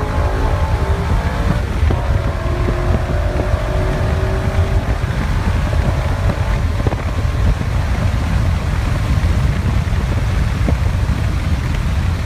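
BMW E39 M5's 4.9-litre V8, heard from inside the cabin at speed, holding a steady engine note that fades out about five seconds in, leaving a steady low rumble of road and wind noise.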